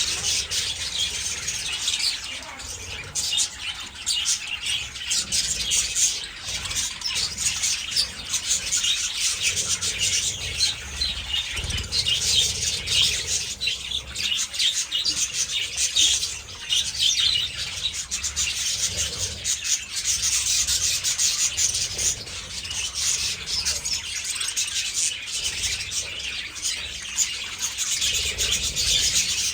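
A flock of budgerigars chirping and chattering without pause, many high, quick calls overlapping.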